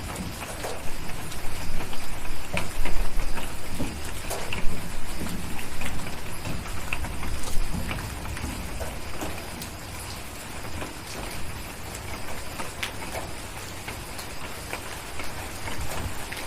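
Steady rain with a low rumble of distant thunder that swells through the first half and then fades back to the rain. Scattered sharp clicks come through the rain.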